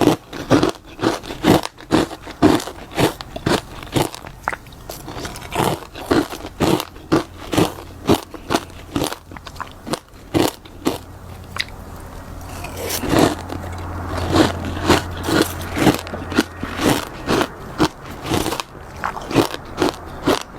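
Close-miked crunching of freezer frost being bitten and chewed, a steady run of crisp crunches about two a second.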